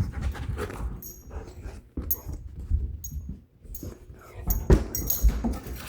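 A puppy playing close by, with dog noises mixed with scuffling and knocks, and sharp thumps about two seconds in and again near the end.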